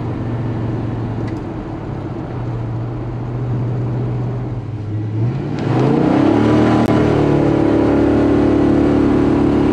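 1965 Pontiac GTO's Tri-Power 389 V8 running at a steady pitch, then about five seconds in the revs climb quickly and the engine holds a louder, higher note as it pulls hard under acceleration.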